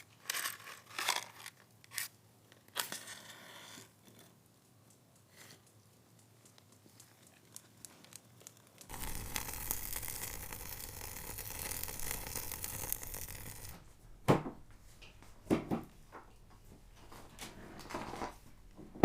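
Wood fire catching in a grill, crackling with scattered sharp pops, and a steady rush of noise for about five seconds in the middle.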